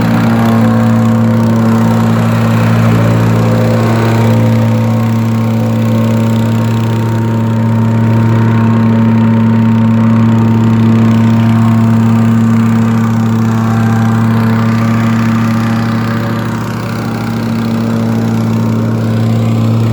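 An engine running steadily at a constant speed, with a deep, even hum throughout and a slight dip in loudness near the end.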